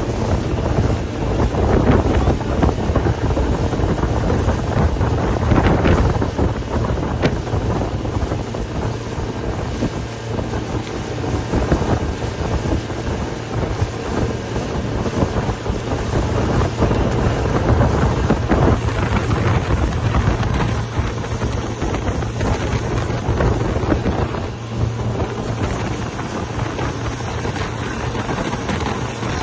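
Wind buffeting the microphone, a loud, gusting rush, over radio-controlled offshore model boats running on the water.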